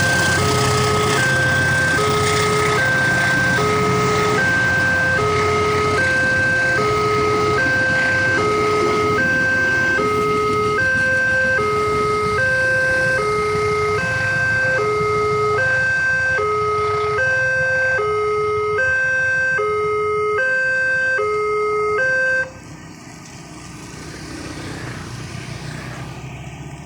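Railway level-crossing warning alarm sounding a two-tone alternating chime, about two tones a second, signalling a train at the crossing, over a low rumble. It cuts off suddenly about 22 seconds in, as the crossing clears.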